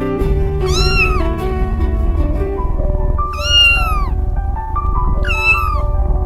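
Cat meowing three times, each call rising and then falling in pitch, over soft background music.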